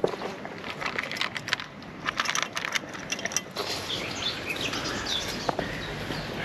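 Crunching steps on a gravel path for a few seconds, then small birds chirping briefly.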